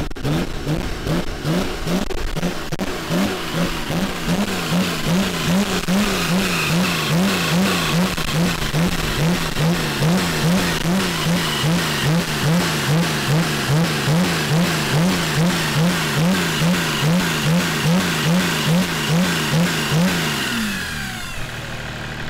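Car engine held at high revs, the revs bouncing up and down in a steady rhythm about two to three times a second, then dropping away near the end.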